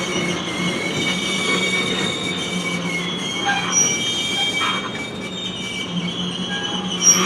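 Freight train wheels squealing against the rail as the cars roll by, several high steady tones held throughout. A brief sharper squeal comes near the end.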